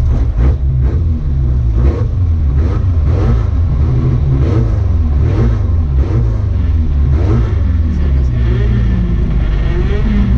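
Rally car engine revving hard under load, its pitch climbing and falling again and again as it runs through the gears, over a heavy low rumble.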